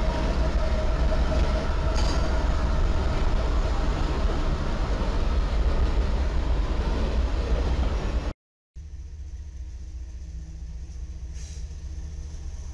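Diesel freight locomotives passing close by: a loud, steady rumble of engines and rolling wheels. About eight seconds in it cuts off abruptly, and a second freight train's diesel locomotives are heard passing, quieter.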